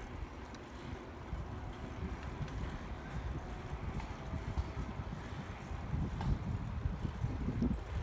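Wind buffeting the microphone of a moving bicycle, a low, uneven rumble that swells a little in the second half, with a few faint rattles.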